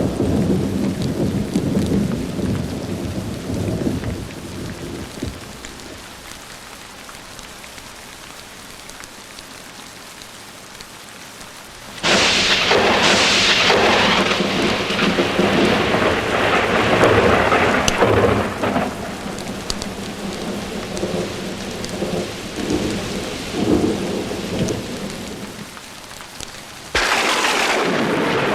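Thunderstorm with steady rain. A roll of thunder dies away in the first few seconds, leaving the rain. About twelve seconds in, a sudden loud thunderclap cracks and rumbles on for many seconds, and a second sharp clap breaks near the end.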